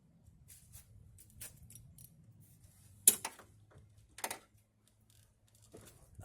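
Tools and parts being handled in a truck's engine bay: scattered light clicks and rattles, with two sharper metallic knocks about three and four seconds in.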